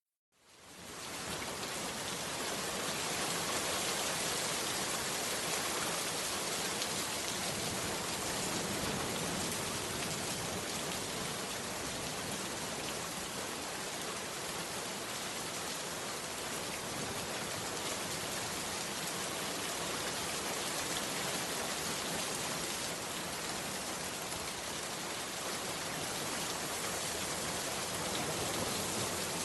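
Heavy rain falling steadily, fading in from silence within the first second.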